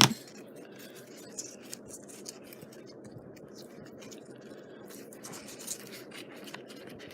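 Light scratching, rustling and small clicks of hands pressing ribbon and paper into place with hot glue, over a steady low hum. A sharp click opens it.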